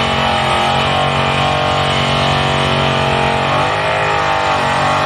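Drag-racing car's engine running loud and steady at wide-open throttle down the strip.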